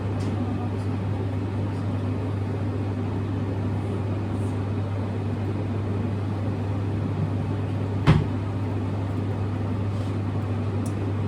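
A steady low hum from a kitchen appliance's motor or fan, with a single sharp knock about eight seconds in.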